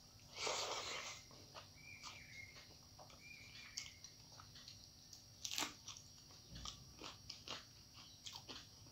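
Close-up mouth sounds of eating rice and curry by hand: a crunchy bite about half a second in, then chewing with small wet clicks and smacks, and another short crunch near the middle.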